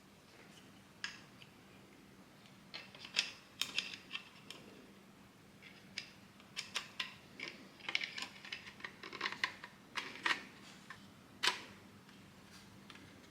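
3D-printed plastic parts being handled and fitted together by hand: irregular sharp clicks and light clattering, in clusters, with one loud click near the end.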